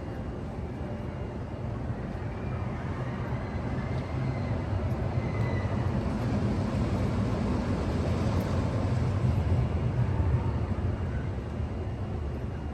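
Low rumbling noise that swells about four seconds in and eases off near the end.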